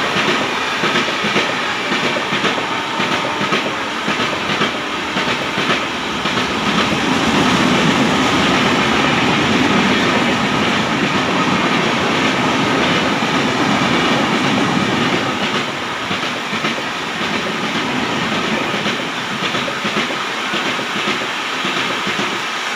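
Express train passing through a station without stopping: a steady rumble and rattle of the coaches with wheels clattering over rail joints, loudest about a third of the way in.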